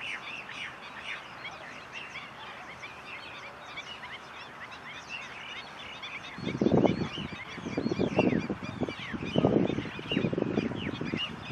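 Many small birds chirping all through, with quick rising and falling notes. From about six seconds in, loud, irregular bursts of low rumbling noise come in and out over the chirps.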